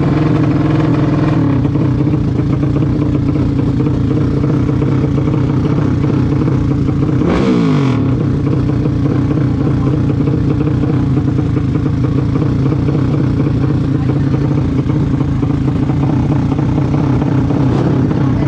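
Motorcycle engines running steadily at a race track. About seven seconds in, a motorcycle passes close by, its engine note dropping sharply in pitch as it goes past.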